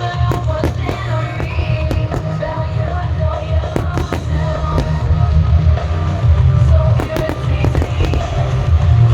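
Fireworks bursting in scattered sharp bangs and crackles, thickest about seven seconds in, over loud music with a heavy bass line.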